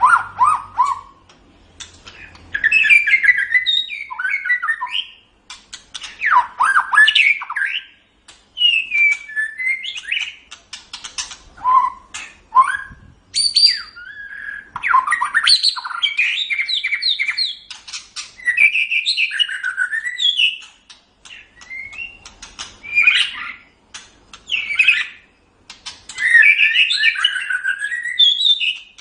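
White-rumped shama (murai batu) singing: a run of varied whistled and chirping phrases, each a second or two long, with short pauses between them.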